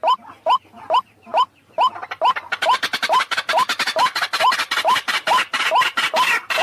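White-breasted waterhen (ruak-ruak) calls, played as a bird-trapping lure recording: a steady run of short rising notes, about two and a half a second. From about two and a half seconds in, a harsher, denser chatter joins them.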